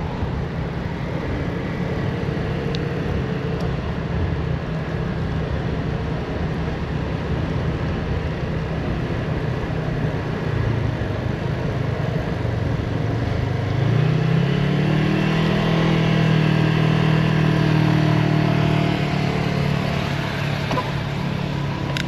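A motor vehicle's engine runs over steady wind and road noise. About two-thirds of the way through, its pitch rises and it grows louder as it speeds up.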